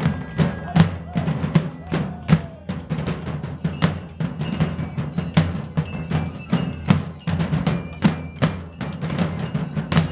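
A drum corps playing a driving rhythm of dense, repeated drum strikes over a steady low drone.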